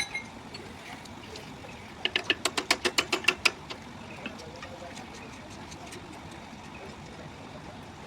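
A quick run of about a dozen sharp clicks or taps, near eight a second, lasting about a second and a half, over steady low background noise.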